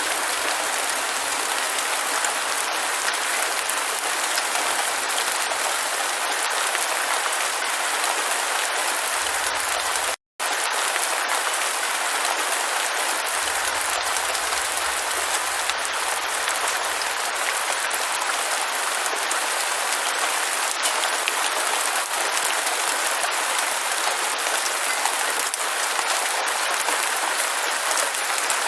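Steady rain, an even hiss of falling drops, that cuts out completely for a fraction of a second about ten seconds in, then resumes unchanged.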